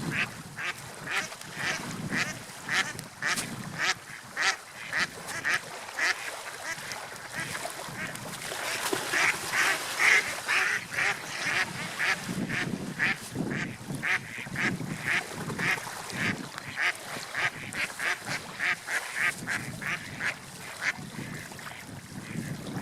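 Birds, likely waterfowl, calling in a long series of short calls at about two a second, thicker and loudest about halfway through, over a steady wash of water and wind.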